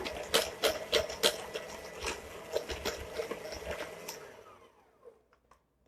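Electric hand mixer beating butter and sugar in a small bowl, its beaters clicking against the bowl. About four seconds in it is switched off and the motor winds down to silence.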